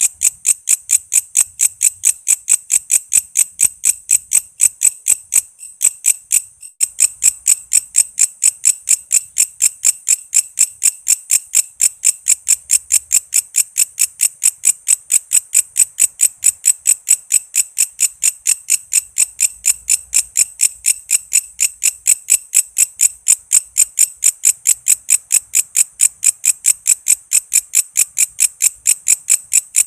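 Walang kece, an Indonesian katydid, calling in a steady run of short, sharp, high-pitched chirps, about three to four a second; the rhythm falters briefly about six seconds in.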